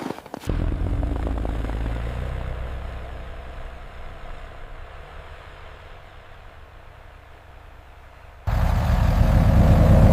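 Low engine rumble, like a vehicle running. It cuts in abruptly, fades slowly, then jumps suddenly louder near the end.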